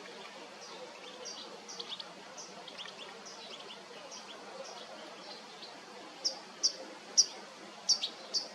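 Small birds chirping: short, high chirps repeated every half second or so, with a louder run of chirps in the last two seconds, over a steady faint background hiss.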